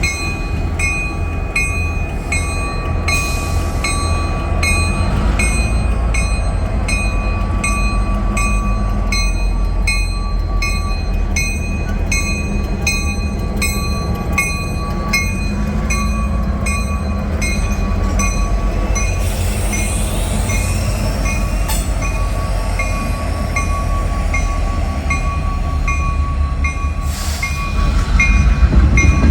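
Diesel locomotives rumbling along the track, with a bell ringing steadily about twice a second and a faint steady high squeal; the rumble grows louder near the end.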